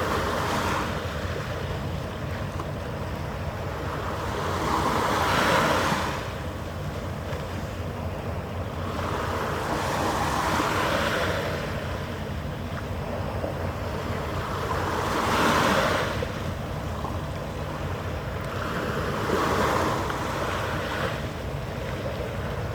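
Harbour water washing against the shore in slow surges about every five seconds, over a faint steady low hum.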